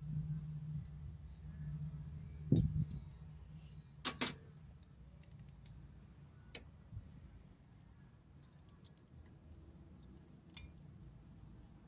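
Scattered light clicks and metallic taps from tools and parts being handled, with a sharper knock about two and a half seconds in and a quick double click about four seconds in, over a low hum that fades after the first few seconds.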